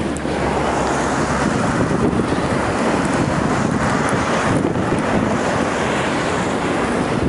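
Blizzard wind blowing across the microphone as a steady rushing noise, mixed with highway traffic passing below.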